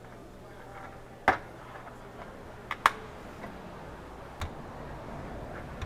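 A few sharp clicks or taps: one, then two in quick succession, then one more, over a faint steady hum.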